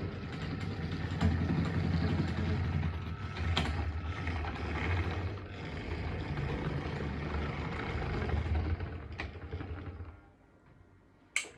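Hornby model locomotive running along the track, a steady motor whirr and wheel rumble with a few clicks, stopping about ten seconds in; a sharp click near the end.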